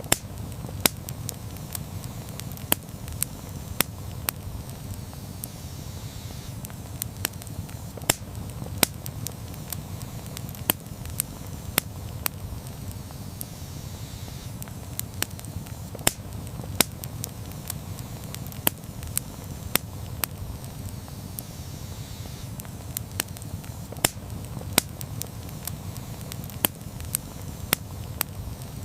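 Campfire burning: irregular sharp crackles and pops from the burning wood, over a steady low rumble.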